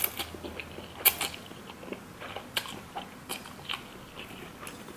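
A person chewing a mouthful of instant ramen noodles close to the microphone, with scattered short, sharp clicks, the strongest about a second in.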